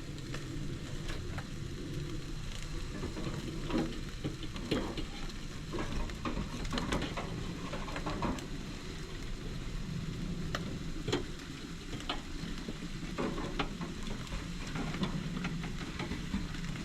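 Jerk chicken legs sizzling on a barbecue grill, with irregular crackles and pops.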